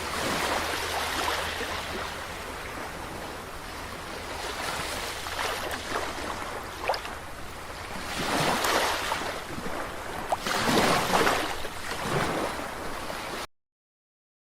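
Ocean waves washing onto a shore, swelling in several surges and easing between them, then cutting off suddenly near the end into silence.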